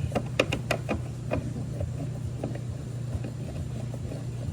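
A few light clicks and knocks in the first second and a half, with fainter ones later, as a replacement refrigerator compressor is handled and set into place, over a steady low hum.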